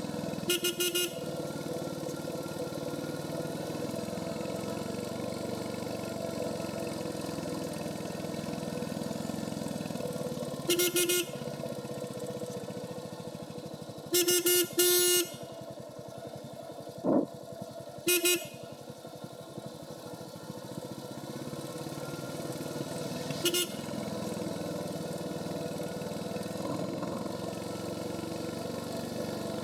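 Royal Enfield Hunter 350's single-cylinder engine running steadily through its stock exhaust on the move. Short horn beeps cut in about six times, including a quick double beep near the middle.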